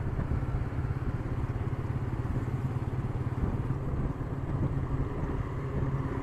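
Royal Enfield Meteor 350's single-cylinder engine running steadily while being ridden on a highway, with wind and road noise, picked up by an action camera's built-in microphone.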